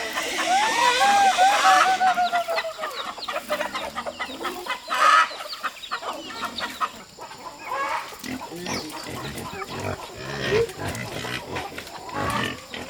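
Chickens clucking in the first couple of seconds, then pigs grunting, with a loud call about five seconds in.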